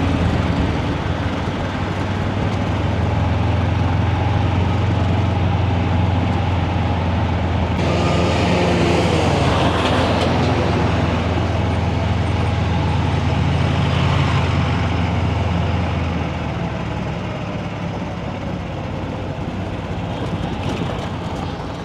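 Heavy diesel truck engine running with a strong steady low hum. There is a louder rush of noise about eight seconds in, and the engine sound drops off about sixteen seconds in.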